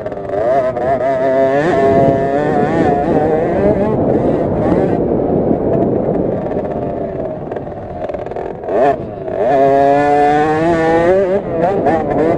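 Small 50cc two-stroke minibike engine, likely a KTM SX50, revving hard and easing off over and over as it races. The pitch climbs and drops repeatedly, with a brief lull near the middle and a sharp climb about ten seconds in.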